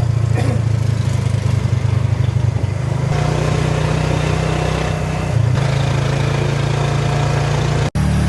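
A motor engine running steadily with a low hum, in a few cut segments, with a brief dropout near the end.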